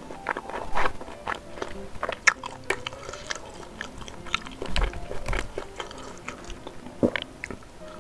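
Close-up mouth sounds of chewing sempol, skewered Indonesian chicken-and-tapioca sticks coated in spicy sauce: irregular wet smacks and small clicks.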